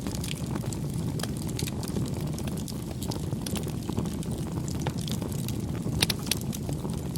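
Wood campfire burning, with a steady low rumble of flames and frequent irregular crackles and pops. The sharpest pops come about six seconds in.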